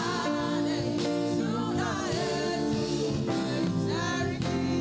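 Gospel praise song sung in Hausa by singers over a band accompaniment.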